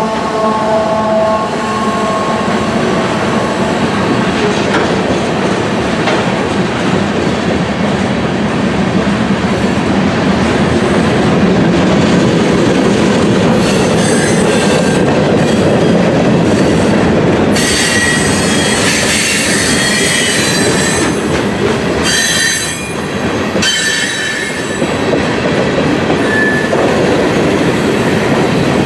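Freight train cars rolling past with a continuous wheel-on-rail rumble and clatter. A few steady tones fade out in the first couple of seconds. Shrill steel wheel squeal comes in about halfway through and is strongest shortly after.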